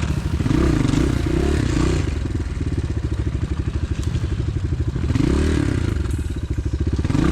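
Pit bike's single-cylinder engine pulling at low revs on a rough trail, with several short swells in revs about half a second in, around five seconds in and at the end, and some clatter from the bike over the ground.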